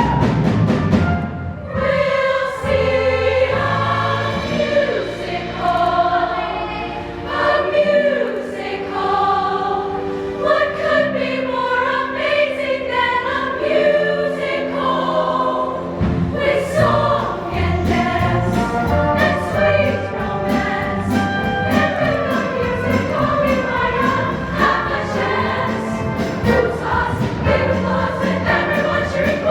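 A show choir singing together in harmony over instrumental backing, with steady low notes and regular percussive beats.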